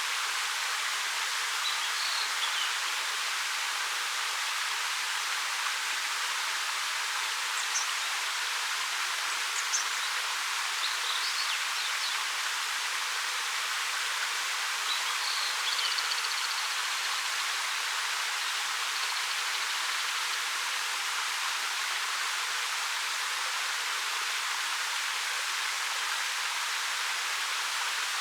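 Steady rush of a 13 m waterfall pouring over dark rock. A few faint, brief high bird calls come through now and then.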